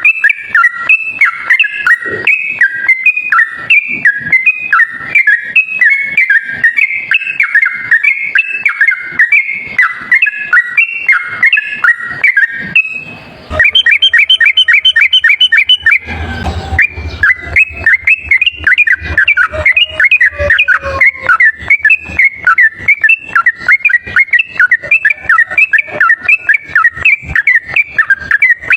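Yellow-vented bulbul (trucuk) singing a loud, rapid 'ropel' song: continuous runs of quick whistled notes. About 13 seconds in the song pauses briefly, then a faster, higher run follows, and a short rumbling noise comes a few seconds later before the song resumes.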